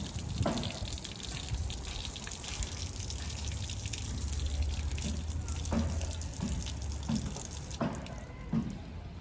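Water running and splashing, with a steady low hum through the middle and a string of short knocks in the second half.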